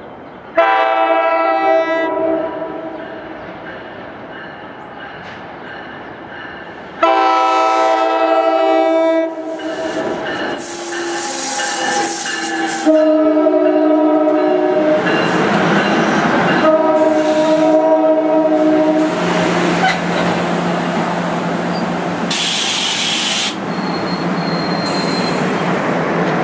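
Train's multi-chime air horn sounding four blasts, the last two long and close together, as the train approaches; from the middle on, the train rushes past with the rattle and clickety-clack of wheels on rail joints.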